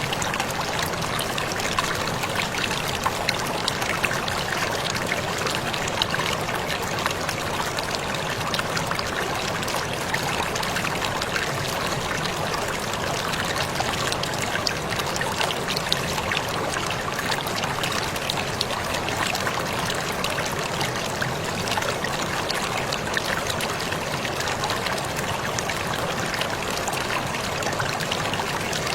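Waterfall splashing and trickling steadily, a constant rush of falling water with many small splashes.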